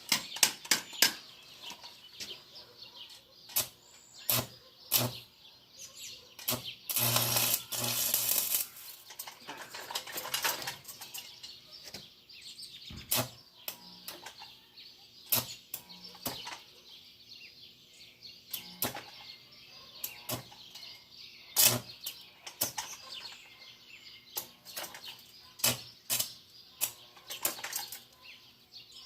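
Stick welder arc with 7018 rods, sputtering in irregular sharp crackles and pops as the rod is struck. About seven seconds in, the arc holds for roughly two seconds with a steady crackle. The amperage is set low, so the arc strikes poorly.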